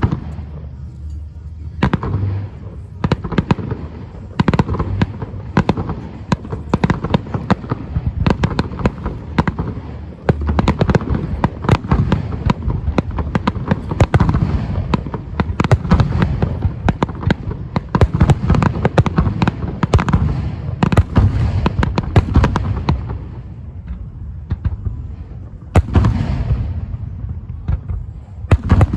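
Fireworks display: a dense barrage of shells bursting, sharp bangs and crackle over a low rumble, thinning out near the end before a few more heavy bursts.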